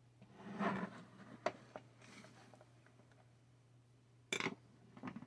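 Parts and tools handled during hand assembly of a 3D printer kit: a short rustle, a few sharp clicks, then a louder clack of hard parts a little past four seconds in, over a steady low hum.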